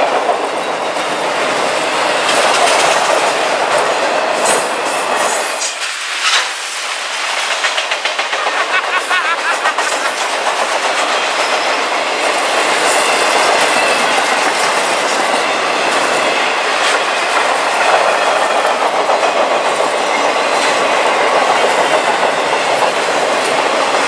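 Norfolk Southern freight cars rolling past at speed, a steady rumble and clatter of wheels on the rails, with a brief thin high squeal about five seconds in.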